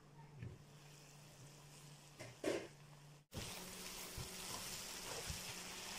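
The pan's glass lid is handled with a brief knock about two and a half seconds in, over a faint low hum. Then potatoes and cauliflower in oil sizzle steadily in the uncovered pan as a metal spoon stirs them.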